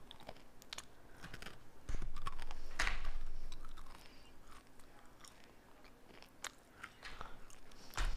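A person chewing a crunchy dry dog treat close to a microphone: a run of sharp crunches and mouth sounds, loudest for a second or so about two seconds in.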